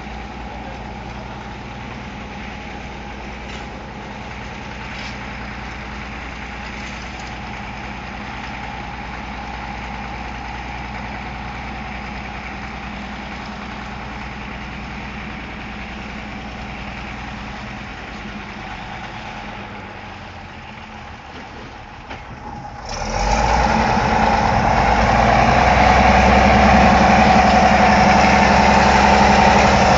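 Engine of heavy road-construction machinery running steadily. About two-thirds of the way through it gets much louder and stays loud, as the machine works harder.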